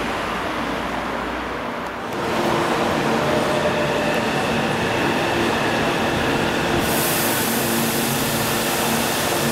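Electric commuter train standing at an underground station platform, its on-board machinery humming steadily with several steady tones over the station's echoing noise. A higher hiss joins about seven seconds in. It opens with about two seconds of broad outdoor noise before the hum takes over.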